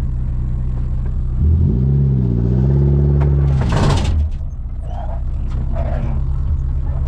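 Daihatsu Feroza's engine running under load, heard from inside the cabin while driving off-road. About a second and a half in, the engine revs up, holds for a couple of seconds and drops back, with a short clatter as it eases off.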